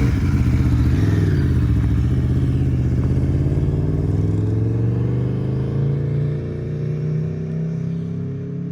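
Sport motorcycle engine running as the bike rides off, its pitch rising slowly and the sound fading over the last few seconds as it moves away.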